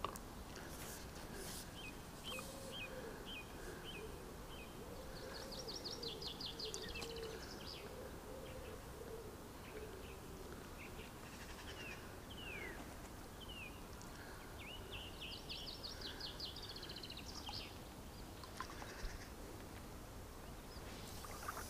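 Small birds singing: a run of short chirps, rapid high trills twice and a few falling whistled notes, over a faint steady background hiss.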